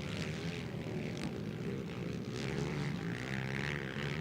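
Engines of racing ATV quads running hard, several at once, their pitches wavering as they rev on the motocross track.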